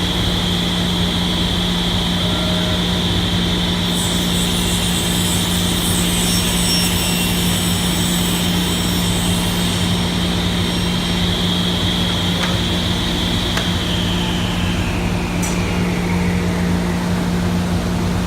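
SawStop table saw running with a steady hum and high whine. From about 4 to 10 seconds in, the blade cuts through a board fed with the miter gauge, adding a hiss. Near the end the whine falls in pitch.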